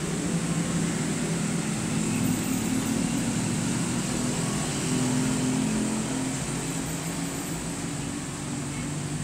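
An engine running steadily with a low hum that wavers slightly, over a steady hiss.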